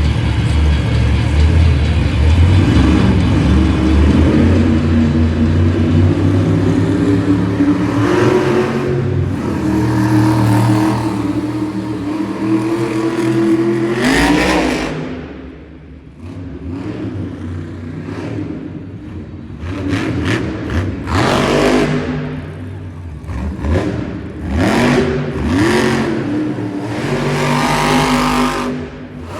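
Monster truck's supercharged V8 engine running hard under heavy throttle. About halfway through it drops off, then revs up and down in a series of short bursts.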